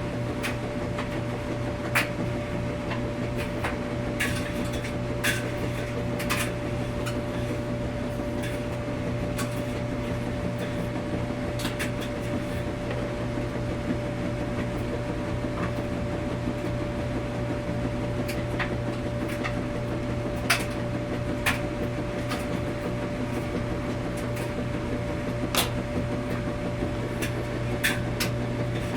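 Laundromat washing machine running with a steady hum, with irregular sharp clicks and knocks every second or few.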